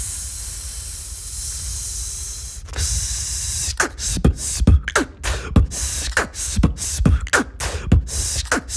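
Mouth-made beatbox: a long breathy hiss for about two and a half seconds, then a beat of vocal kick and snare strokes, about two a second.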